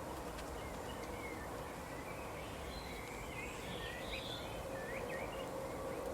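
Songbirds chirping in quick short calls, busiest about halfway through, over a steady outdoor background noise with a faint low hum.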